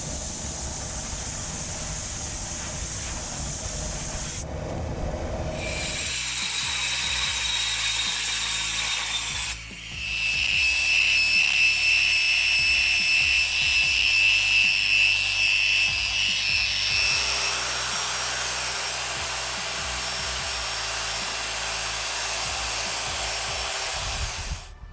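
Power tools working the cast aluminium sword: a steady high machine whine with grinding and rubbing, heard in several short cut-together clips whose pitch and loudness change with each cut.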